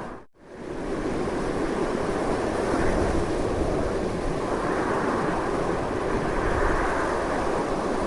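Strong wind blowing steadily in a dense, full rush with low rumble beneath. Near the start it drops out almost to silence for a moment and fades back in.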